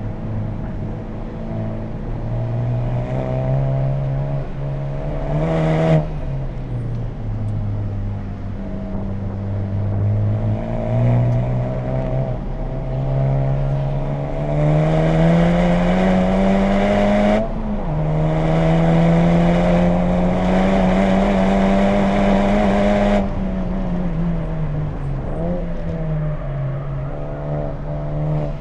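A 2020 Honda Civic Type R's turbocharged 2.0-litre four-cylinder with an HKS Legamax exhaust, pulling hard on track. The engine note climbs through a gear, drops sharply at an upshift about 17 seconds in, then climbs again until the power cuts off about 23 seconds in and the revs fall away.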